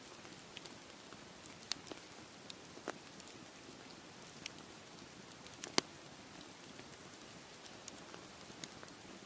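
Campfire crackling: irregular sharp pops and snaps, the loudest a little before the six-second mark, over a steady hiss.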